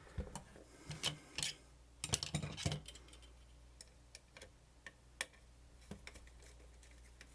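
Small clicks and taps from working on a camcorder's plastic body with a small screwdriver and screw, a cluster in the first few seconds, then only an occasional tick over a faint steady hum.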